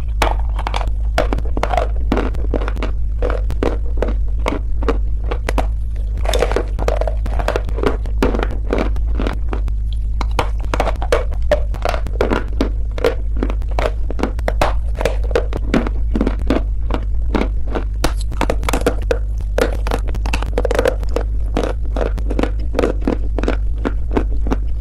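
Clay stones being bitten and chewed close to the microphone: many sharp, irregular crunches in quick succession, over a steady low hum.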